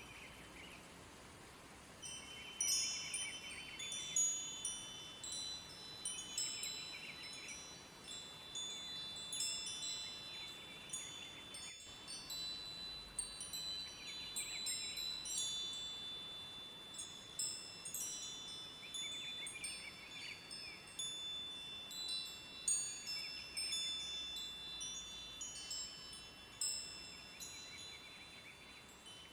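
Wind chimes ringing in loose, irregular clusters of overlapping high tones, starting about two seconds in, over a faint steady rush of river water.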